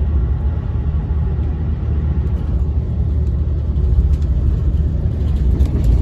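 Moving passenger train heard from inside the coach: a steady low rumble of wheels and running gear, with a few faint clicks in the second half.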